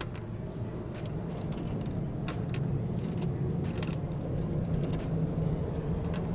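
Steady low drone of an idling engine, with scattered metallic clicks and taps from a socket wrench working on truck battery terminals and hold-downs.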